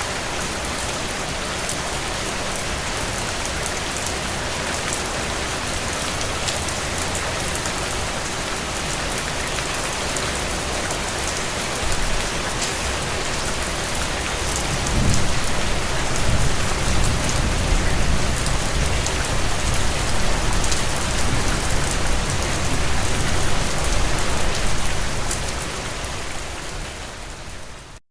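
Steady rain falling on surfaces, a dense even hiss with fine drop ticks. A low rumble swells about halfway through and dies down before the end, and the rain fades out briefly right at the end.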